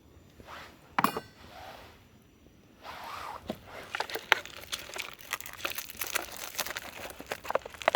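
A single sharp clink about a second in, then from about three seconds on a steady run of crinkling and rustling, as of plastic packaging being handled and opened.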